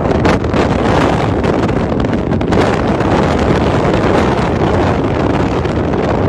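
Wind blowing hard across the microphone, a loud, gusty rush with no pauses.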